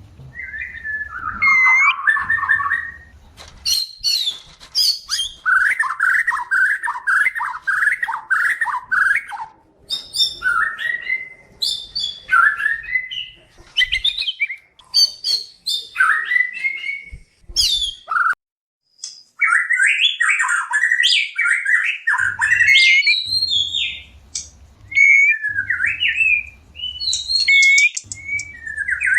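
White-rumped shamas singing in breeding condition: fast, varied phrases of chirps, whistles and harsh notes, with a short pause about two-thirds of the way through.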